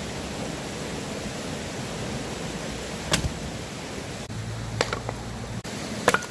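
Campfire burning with a steady hiss and a few sharp pops from the wood, about three seconds in, near five seconds and just past six seconds.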